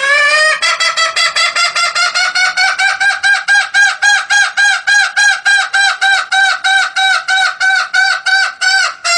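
Junglefowl call played as a hunting lure: a rapid, even train of short pitched notes, about four a second, each rising and falling. It starts and cuts off abruptly.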